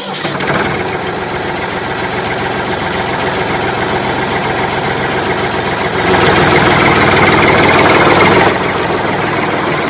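Small motor running steadily with a fast, buzzing rattle. It gets louder from about six seconds in and eases back near the end.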